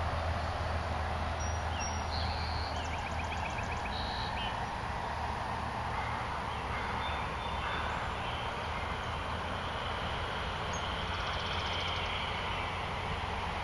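Steady outdoor background noise with a few short, high bird chirps and trills, clustered in the first few seconds and again faintly near the end.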